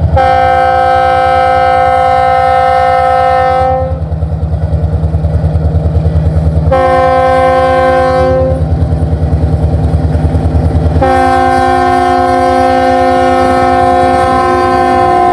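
Locomotive multi-chime air horn sounding three blasts, long, short, then long and still going at the end, the pattern of a grade-crossing horn signal. Under it runs the steady low rumble of the approaching train's engine.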